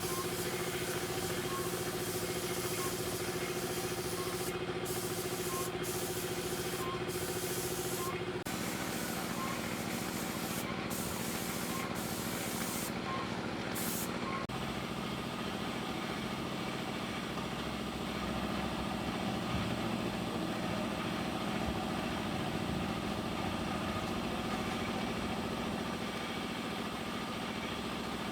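A motor running steadily under a hiss, with faint regular ticks early on. Its tone changes abruptly twice.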